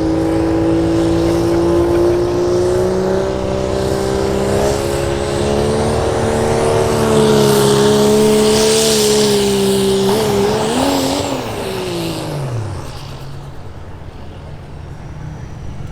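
Diesel pickup truck engine at full throttle pulling a sled, its pitch climbing slowly and holding. About ten seconds in the engine backs off, the revs wobbling and then falling away.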